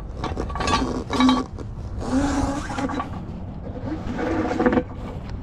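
A few metallic clinks, then two stretches of scraping, over a steady low rumble, as the spare tire and tire-changing tools are handled.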